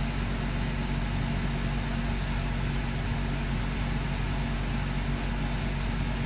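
A steady mechanical drone: an even low hum under a constant hiss, with no change through the pause.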